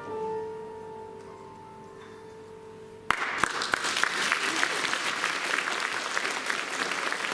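Final piano chord ringing out and fading over about three seconds, then audience applause breaks out suddenly a little after three seconds in and keeps going.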